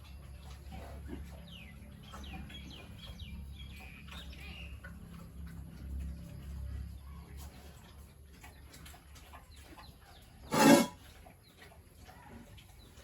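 Farmyard sounds: a low steady hum with faint bird or chicken chirps, then one short, loud pig call about ten seconds in.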